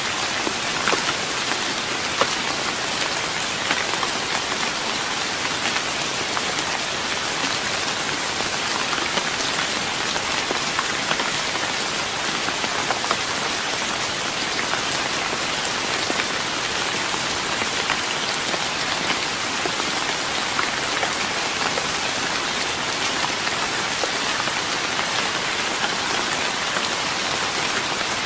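Steady rain falling on a wooden deck, a constant hiss scattered with the ticks of single drops.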